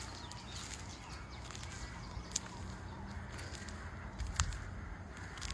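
Steady low outdoor rumble with two sharp clicks, one about two and a half seconds in and one about four and a half seconds in.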